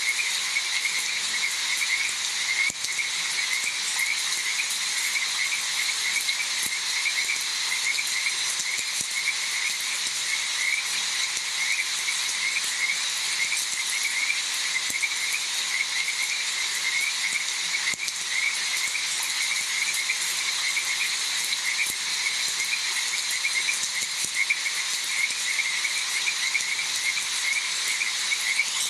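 A dense chorus of frogs calling, with many short croaks repeating rapidly and overlapping, over a steady hiss of rain.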